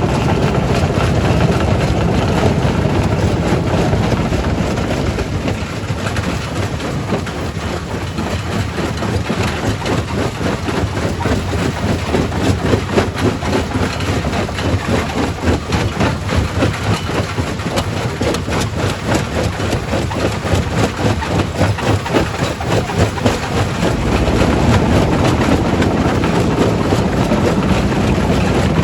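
Quarry primary rock crusher running and crushing stone: a rapid, irregular clatter of knocks over a steady heavy machine rumble. The rumble grows heavier near the end.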